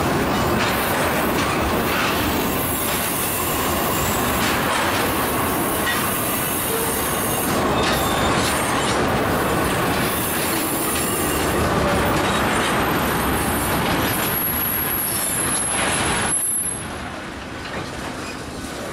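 Freight train tank cars rolling past at close range: a steady rumble and rattle of steel wheels on rail, with occasional knocks and a thin, high wheel squeal. The sound drops somewhat near the end.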